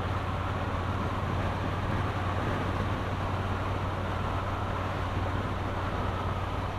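Steady wind rush with the even drone of a Triumph Bonneville T120's 1200 cc parallel-twin engine at a constant cruising speed, picked up at the rider's helmet with the visor open.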